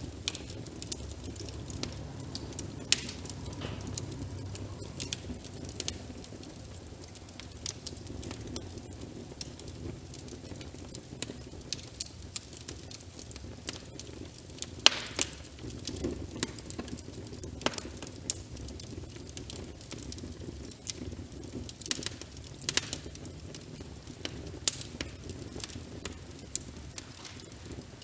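Wood fire crackling in a fireplace, with irregular sharp pops every second or so, over a steady soft hiss of rain on a window.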